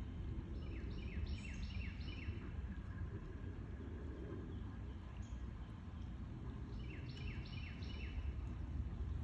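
A songbird sings two phrases, each a quick run of five or six short notes falling in pitch, at about four notes a second. A steady low outdoor rumble runs underneath.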